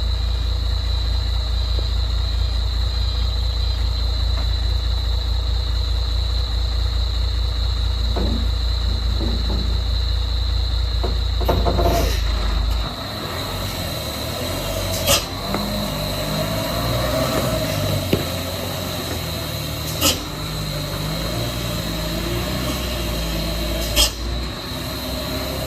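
A heavy vehicle's engine running with a steady low rumble that drops away about halfway through, leaving an uneven lower running sound. Three short sharp sounds come several seconds apart.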